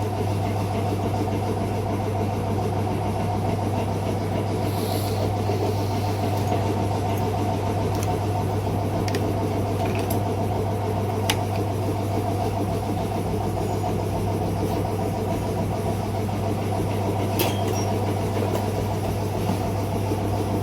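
Steady low hum of a running machine, holding one pitch, with a few faint clicks and taps over it.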